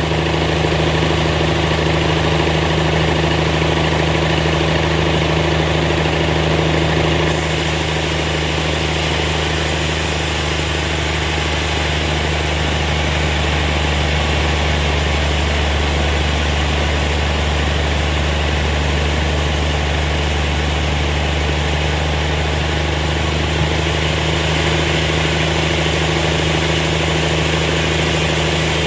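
Sawmill machinery running steadily: an even, unchanging engine drone with a strong low hum and no cutting strokes or changes in load.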